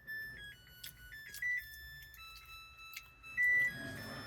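Samsung washing machine's control panel playing a short electronic beep melody, pure tones stepping up and down in pitch, some short and some held, as the machine stops.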